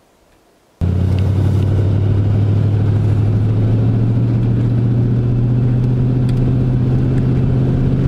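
A road vehicle driving, its engine and road noise making a steady low drone that starts abruptly about a second in.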